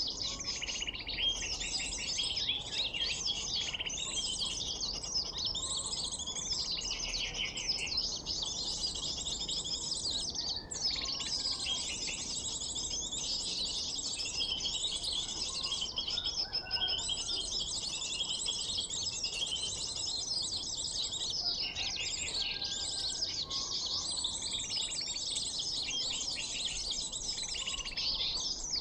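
Dense, unbroken high-pitched chirping and twittering of many small birds, played as a lure recording for trapping sunbirds.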